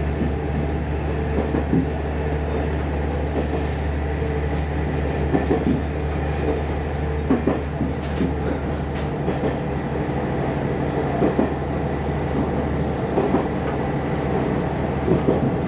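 Inside a diesel railcar running along the line: a steady low engine and running drone, with the wheels knocking over rail joints every second or two.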